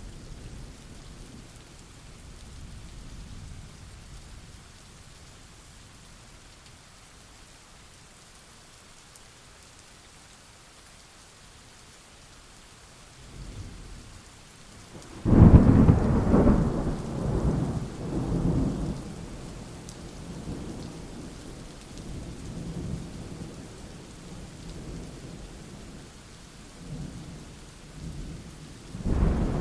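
Steady rain with thunder: a loud thunderclap about halfway through that rolls and rumbles for several seconds, then fainter rumbling, and another clap starting near the end.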